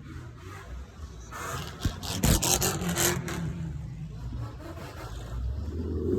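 Car engines running at low revs, with a cluster of sharp scraping clicks about two seconds in.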